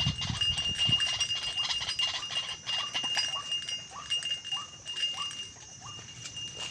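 White-breasted waterhen calls: short rising notes repeated about twice a second, over a steady high-pitched insect drone.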